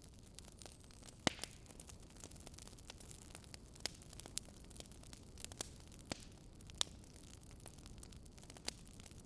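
Faint crackling wood fire: about seven irregular sharp pops over a soft steady hiss, the loudest about a second in and near the seven-second mark.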